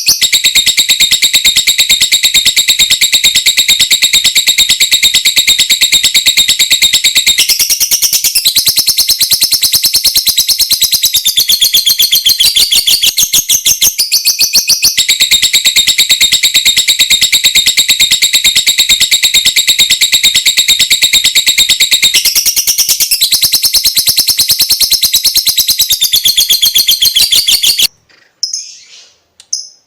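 Lovebird's long 'ngekek' chatter: a very fast, unbroken string of high, clicking notes ('ngetik'), shifting slightly in pitch every few seconds. It breaks off near the end, and a few short chirps follow.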